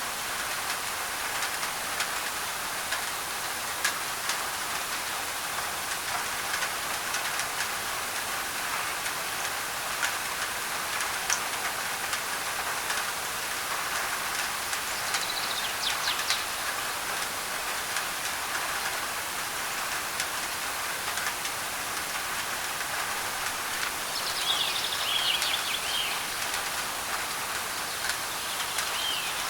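Steady rain on a thin tin roof, an even hiss with many small drop ticks, blended with white noise. Birds chirp briefly about halfway through and in a quick series near the end.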